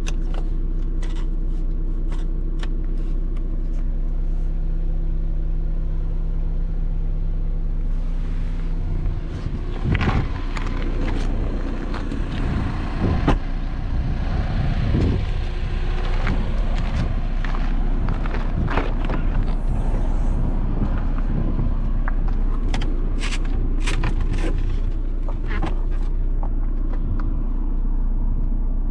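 Audi A6 2.0 TDI four-cylinder diesel engine idling steadily, with a series of short clicks and knocks over it in the second half.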